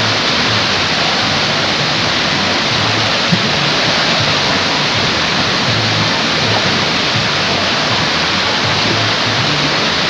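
Steady rush of water pouring out of water-slide tubes into a splash pool, with music playing underneath and a low bass line shifting notes.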